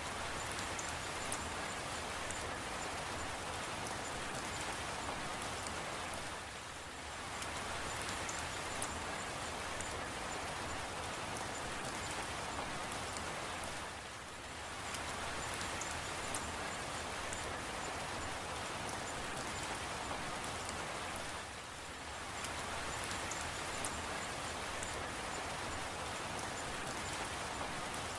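Steady rain falling, with faint scattered drop ticks; the sound softens briefly about every seven and a half seconds.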